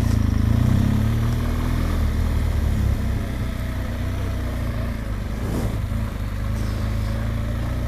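Motorcycle engine running at low speed, its pitch rising and falling a little over the first few seconds, then settling to a steady run.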